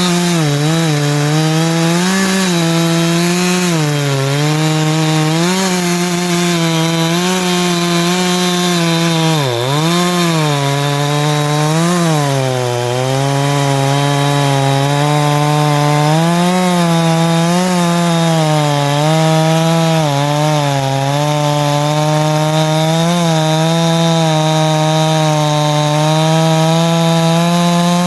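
Ported Farmertec G372XT two-stroke chainsaw running at high revs while cutting wood, its pitch dipping again and again as the chain loads in the cut and then recovering. The owner feels it still lacks pull and thinks it may need more ignition timing advance.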